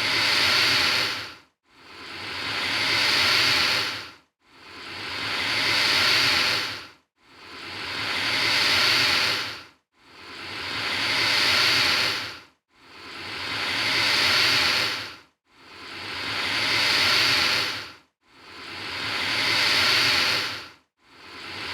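Alligator hissing: the same long hiss repeats about every two and three-quarter seconds, eight times in all, like a looped recording. Each hiss swells over a couple of seconds, then cuts off sharply before a brief silence.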